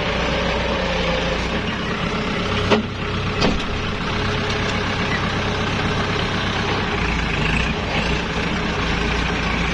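Kubota L5018 tractor's diesel engine running steadily, with two sharp knocks a little under a second apart about three seconds in.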